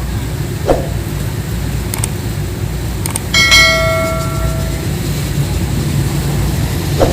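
Steady low rumble of tugboat diesel engines, with a single ringing metallic strike, bell-like, about three seconds in that fades over a second and a half. A couple of lighter knocks come near the start and at the end.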